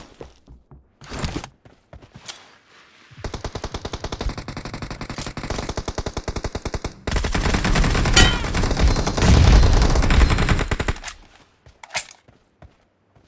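Automatic gunfire in a team shooter video game: a scattered shot early, then a steady burst of rapid, evenly spaced shots from about three seconds in, turning louder and heavier from about seven to eleven seconds, with a couple of single shots near the end.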